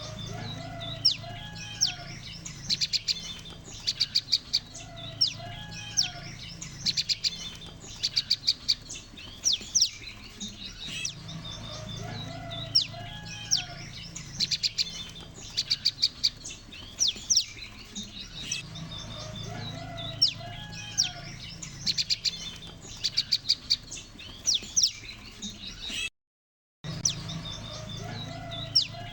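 Lure recording of a group of prenjak lumut (prinia) calling together: rapid bursts of high, sharp chirps repeating every second or two, with softer lower warbled notes between them over a steady low hum. The sound cuts out briefly about 26 seconds in.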